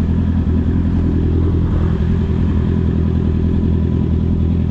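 Honda CB650R's inline-four engine running through an Akrapovic exhaust, its pitch steady throughout.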